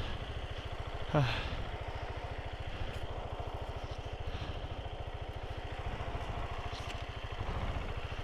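Motorcycle engine idling with a steady, even beat. A short falling voice cuts in about a second in.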